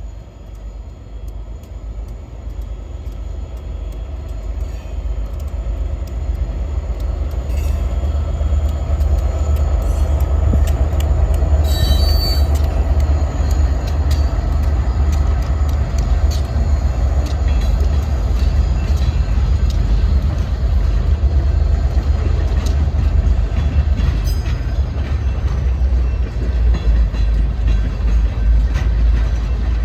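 Freight train passing: a rumble that grows louder over the first several seconds, then holds steady, with the wheels clicking over rail joints throughout and a brief high-pitched squeal about twelve seconds in.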